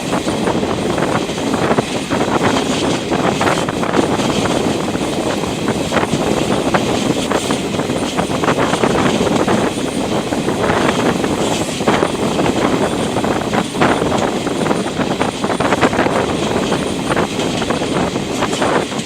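Moving passenger train heard from on board: a steady rumble and rattle of wheels on the rails, with frequent sharp clicks and knocks from the track.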